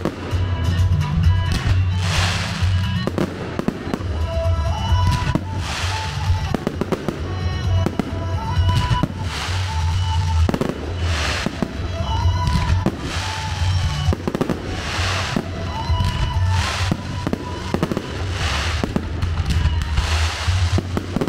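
Fireworks going off over music: repeated sharp bangs with crackling from aerial shells and fountains, against music with a heavy bass and a held melody line.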